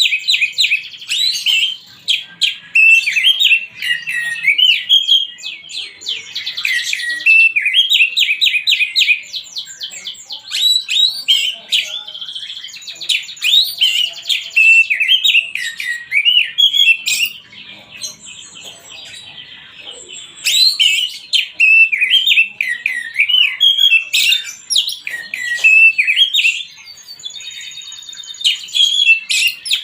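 Oriental magpie-robin (kacer) singing a loud, varied, almost continuous song of quick whistled phrases, trills and swoops, with brief pauses about two-thirds of the way through and near the end. It is the kind of song played as a lure to make other kacer answer.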